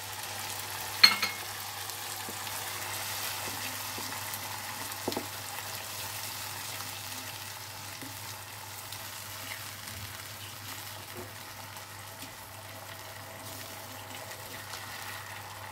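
Spice paste of fried onion, ginger and ground raisins sizzling steadily in hot oil in a non-stick frying pan while a spatula stirs it. A single sharp knock about a second in, and a fainter one around five seconds.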